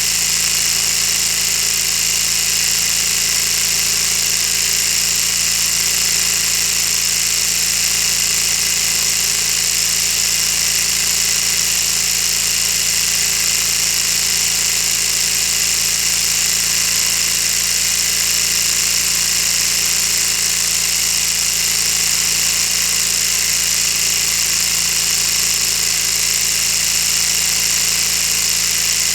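Lego model V-16 engine running at a steady speed, its plastic pistons, crankshaft and gears making a continuous whirring clatter with a high, even hiss.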